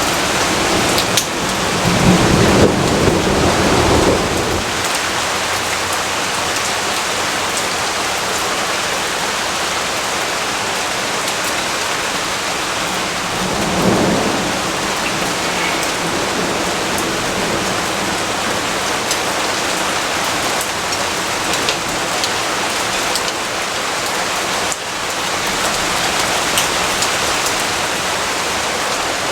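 Steady rain with a low rumble of thunder about two seconds in and a shorter rumble about halfway through.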